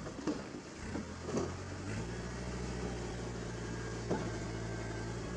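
An engine idling steadily, with a few short knocks over it near the start and about four seconds in.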